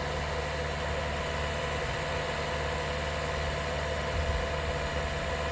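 SwarmFarm autonomous spraying robot's engine idling steadily.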